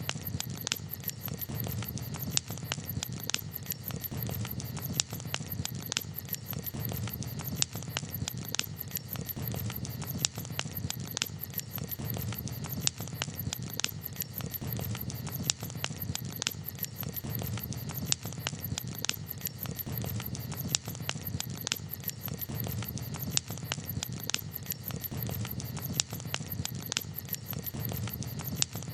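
Campfire crackling: irregular sharp pops and snaps over a low, steady noise of burning.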